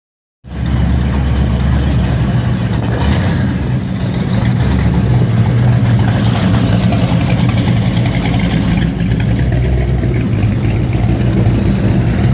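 A car engine idling with a steady low rumble, starting about half a second in.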